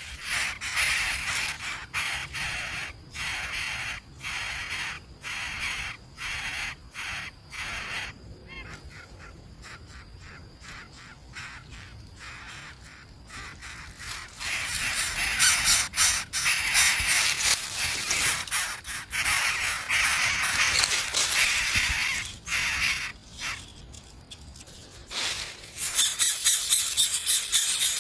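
Harsh, raspy bird calls repeated in quick bursts, quieter for a stretch in the middle.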